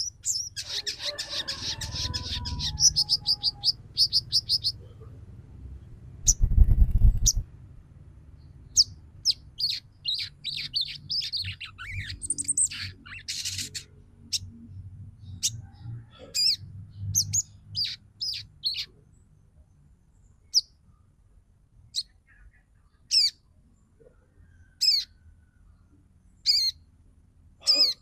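Female crimson sunbird calling: a fast twittering run of high, thin chirps at the start, then sharp single and paired chirps scattered through the rest. A loud low rumble lasts about a second, roughly a quarter of the way in.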